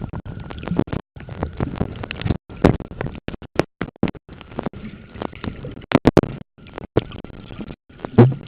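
Muffled water sloshing and handling noise on a compact camera sealed in a waterproof bag, choppy with irregular sharp knocks and several brief dropouts.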